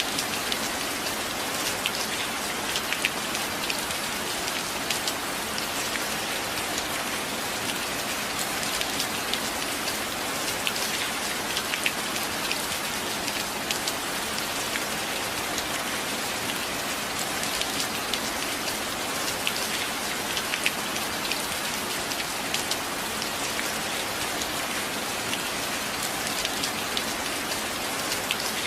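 Steady rain, an even hiss with many individual drops ticking close by. It holds steady throughout, with no thunder.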